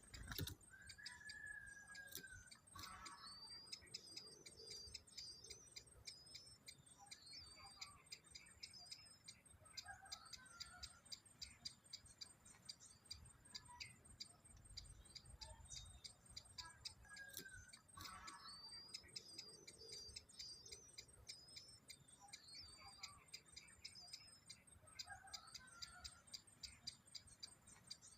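Faint birdsong: a short down-slurred whistle, then repeated high warbling phrases, over a run of soft, evenly spaced ticks. The same sequence repeats about halfway through.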